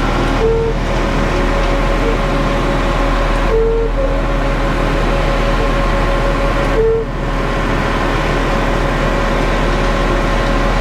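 Concrete mixer truck's diesel engine running steadily while the truck creeps forward, with a short tone repeating about every three seconds.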